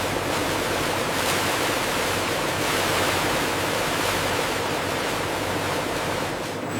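Steady rushing hiss with a faint low hum beneath it.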